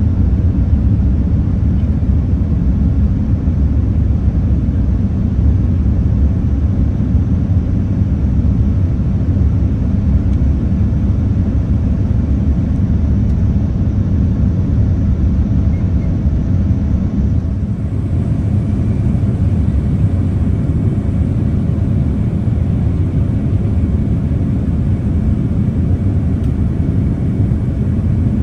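Steady low rumble of a Boeing 787-10 airliner heard from inside the passenger cabin: jet engine and airflow noise, even throughout.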